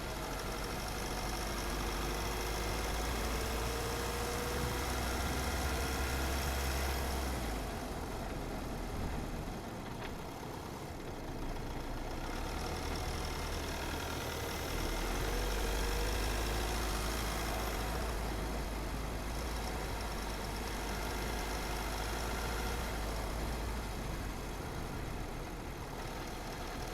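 A car driving along a road: steady engine and tyre noise with a deep low rumble. The rumble eases off for several seconds midway, then comes back, and the engine's pitch drifts gently up and down.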